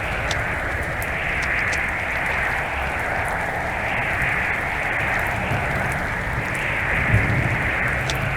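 Strong wind blowing across the microphone: a steady rushing hiss that swells and eases about once a second, with an uneven low rumble of buffeting.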